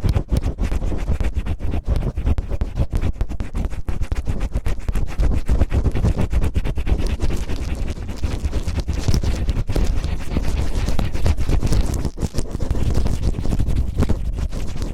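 Cellophane crinkled and rubbed roughly against a microphone to imitate ear cleaning: dense, continuous crackling and rustling over a heavy low rumble from the rubbing.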